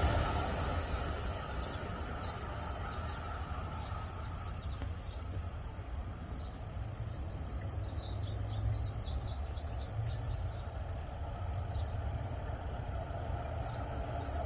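Steady high-pitched insect trilling over a low rumble, with a few faint chirps about eight to ten seconds in.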